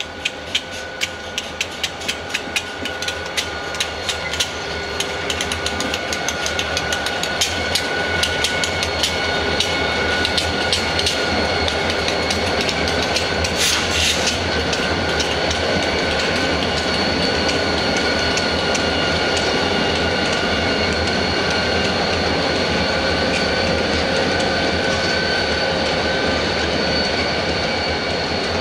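Freight train cars rolling past, the wheels clicking rapidly over rail joints with a steady high squeal over the rumble. The sound grows louder over the first several seconds, then holds steady as the clicking becomes less distinct.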